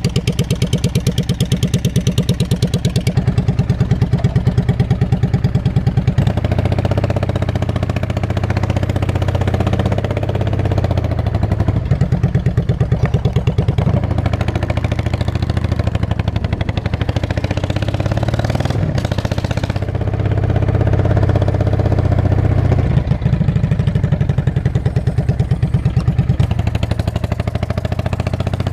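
Straight-piped 2002 Yamaha V-Star 650 air-cooled V-twin running, loud and pulsing, with the revs stepping up and down several times as the throttle is worked.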